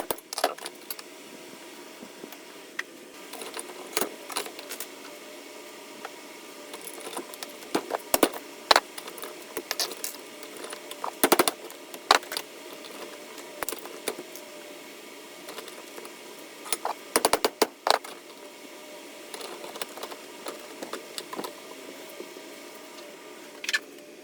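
Metal pieces clinking and clattering, with irregular sharp knocks and short clusters of rattling over a faint steady hum.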